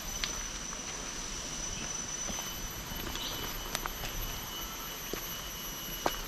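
Outdoor ambience of a tropical garden: a steady high-pitched insect drone over a soft hiss, with a few scattered sharp clicks, the loudest just before the end.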